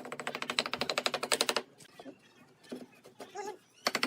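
A power tool making a rapid, even mechanical clatter of about fourteen strikes a second. It stops after about a second and a half, and another burst starts near the end.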